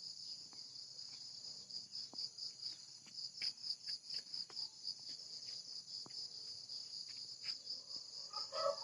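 Crickets chirping steadily, a high pulsing trill, with a few faint scattered clicks and taps.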